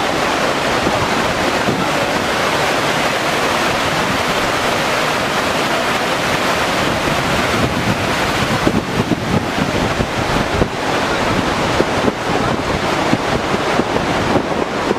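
Loud, steady rush of water, with wind buffeting the microphone in gusts that grow stronger in the second half.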